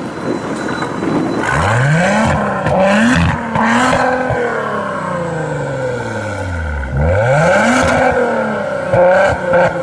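A car engine being revved: its pitch climbs sharply at about a second and a half, gets a few quick blips of the throttle, then falls away slowly. It climbs again near seven seconds and holds steady.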